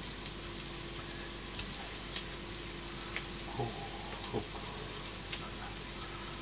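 Gyoza frying in oil in a pan, a steady sizzle with scattered small pops.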